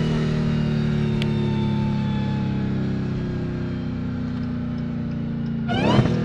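Dodge Challenger Hellcat's supercharged 6.2-litre HEMI V8 running under light load, heard from inside the cabin, its note sinking slowly as the car coasts. A short sudden burst of sound comes near the end.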